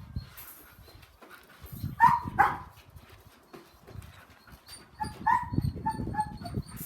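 Dutch Shepherd giving short high-pitched yips and barks: a pair about two seconds in and a cluster about five to six seconds in, with low knocking underneath.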